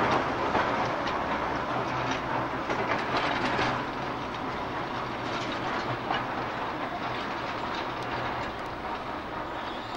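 A train running past, its wheels clattering over rail joints, with a steady low hum underneath; the sound slowly fades as it draws away.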